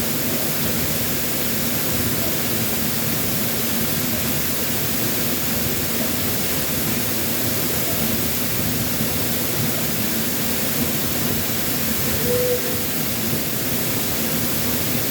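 Waterfall, swollen after a typhoon, giving a steady, unbroken rush of falling water.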